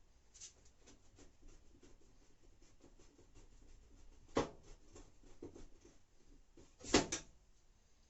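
Light scattered clicks and rubbing of plastic washing-machine parts being handled during reassembly, with two louder knocks about four and a half and seven seconds in.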